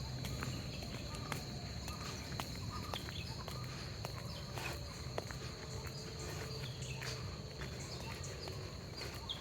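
Footsteps on a path, a faint ticking tread, with birds chirping now and then and a steady high insect drone in the background.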